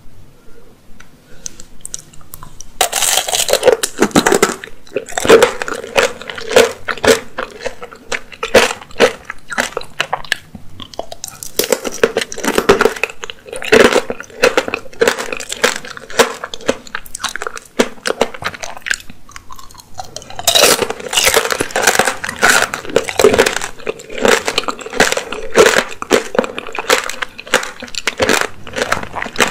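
Close-miked biting and chewing of an apricot tanghulu: the hard candied sugar shell cracks and crunches between the teeth as the fruit is chewed. The crunching starts about three seconds in and comes in heavy bouts of bites, with chewing between them.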